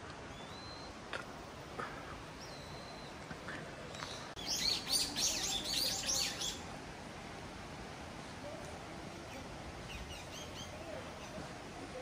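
A songbird singing: a couple of thin, high whistled notes, then a loud, rapid run of high chirps lasting about two seconds around the middle, and a few fainter chirps near the end, over a steady background hiss.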